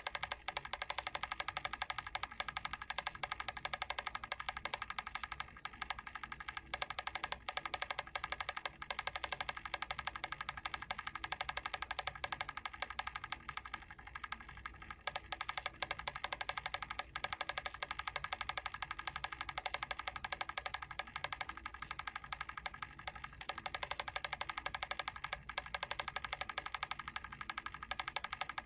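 Mechanical timer switch ticking steadily: a rapid, even run of small clicks that does not let up.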